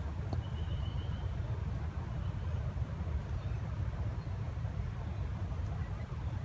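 Outdoor ambience: a steady low rumble, with a faint high-pitched insect call pulsing about once a second and a brief bird chirp near the start.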